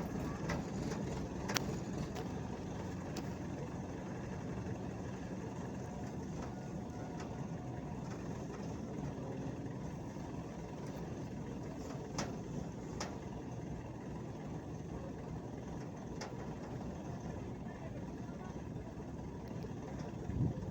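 Steady low engine rumble, with a few sharp knocks or clicks scattered through it.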